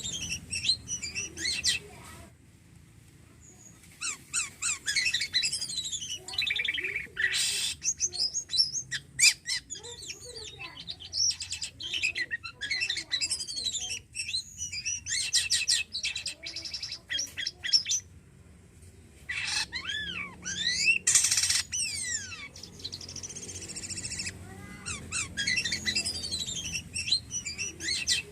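Jalak kapas starling singing: long phrases of fast chattering mixed with sliding whistled notes and harsh squawky calls, broken by brief pauses about two seconds in and again past halfway.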